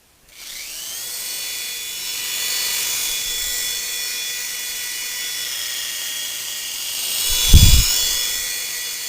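Mini RC helicopter's small electric motor and rotors spinning up from silence with a rising whine, then holding a steady high-pitched whine of several tones. A brief loud low rumble comes about seven and a half seconds in.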